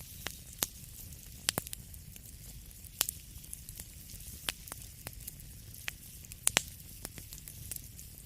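Wood fire crackling in a fireplace: irregular sharp pops and snaps over a low steady rumble and a soft hiss, with the loudest pops about a second and a half in, at three seconds, and a close pair about six and a half seconds in.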